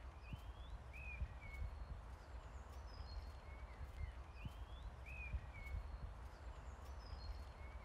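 A songbird repeating a short whistled phrase about every two seconds, a rising note and then a couple of falling ones, over a steady low rumble.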